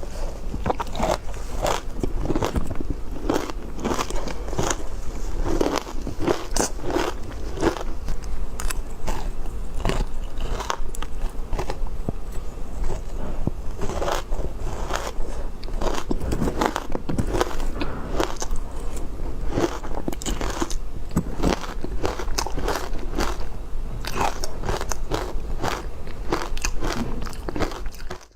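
Close-miked biting and chewing of ice: continual irregular crunching and crackling as the ice is bitten and ground between the teeth, over a faint steady low hum.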